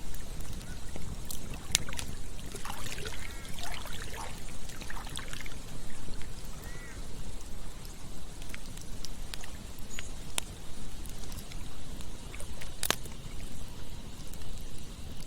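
Campfire burning with scattered sharp crackles and pops over a steady low rush. A short stretch of trickling, gurgling water runs through it a few seconds in.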